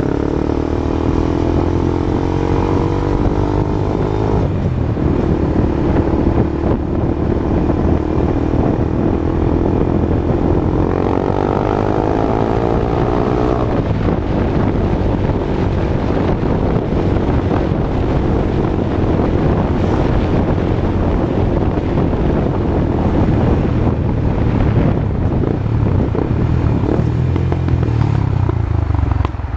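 Honda Twister motorcycle's single-cylinder engine running through a new aftermarket exhaust. Its pitch rises over the first four seconds and drops suddenly, climbs again between about nine and fourteen seconds and drops, then holds fairly steady.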